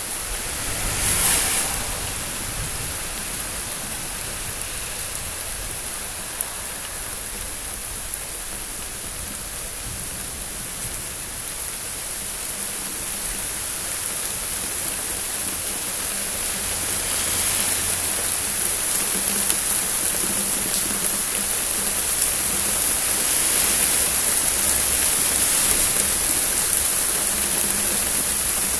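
Thunderstorm rain falling steadily, with a brief louder surge about a second in, growing gradually heavier through the second half.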